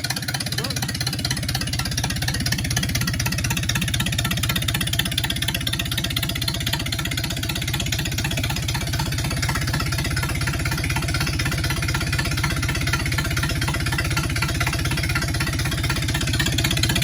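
Ford Model A four-cylinder flathead engine running steadily on a break-in test run, its even firing beat getting a little louder near the end.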